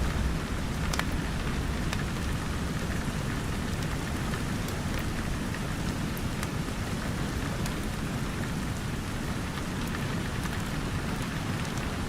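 Steady rain hissing with a wood fire crackling: scattered sharp pops over the rain, and a low rumble underneath.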